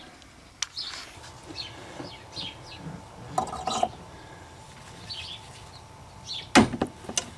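Small birds chirping repeatedly in the background, with a brief metallic clatter about three and a half seconds in. Near the end comes a sharp, loud clack as the wiper arm pops loose from its shaft under a removal tool.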